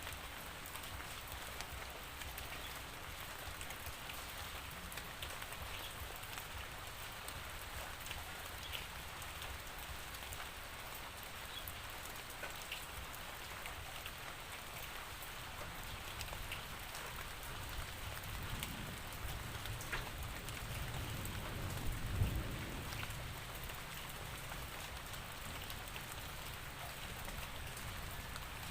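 Steady rainfall, with many small droplet taps over an even patter. About two-thirds of the way through, a low rumble swells and fades over several seconds.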